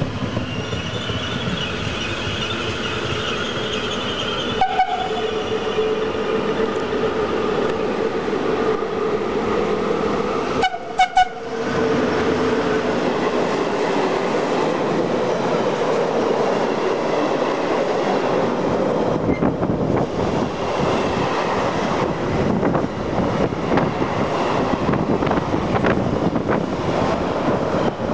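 Italian electric train moving through the station with a steady running noise and a whine whose pitch slowly falls. There are short loud blasts about 5 seconds and 11 seconds in.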